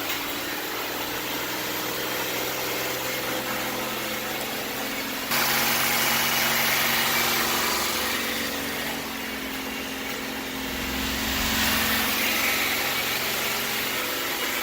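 Car engine idling steadily, suddenly louder about five seconds in.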